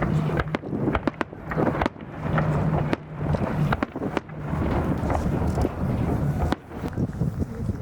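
Aerial fireworks bursting: a rapid run of sharp bangs and crackles over a steady low rumble, thickest in the first two seconds and again around three to four seconds in.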